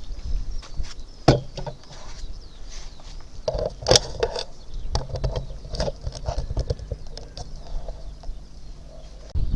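Scattered knocks and clicks of things being handled close to the microphone, the sharpest about a second and four seconds in, over a low rumble, with birds chirping faintly.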